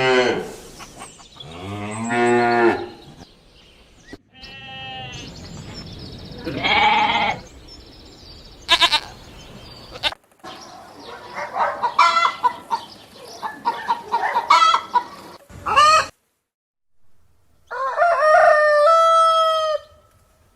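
A string of separate farm animal calls with short pauses between them, a run of short clucking calls in the middle and one long call near the end.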